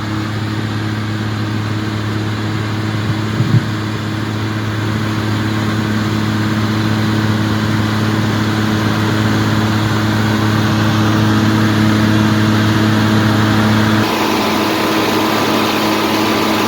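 Farm tractor engine running steadily while hauling a load, a constant low drone. There is a brief knock about three and a half seconds in, and the drone's tone changes abruptly near the end.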